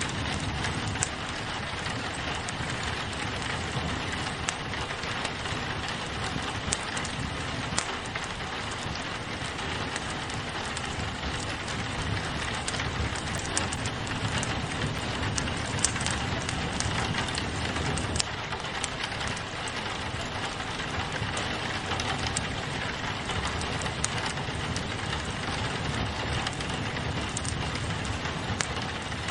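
Steady rain on a window mixed with a crackling wood fire: an even hiss with scattered sharp pops and clicks throughout.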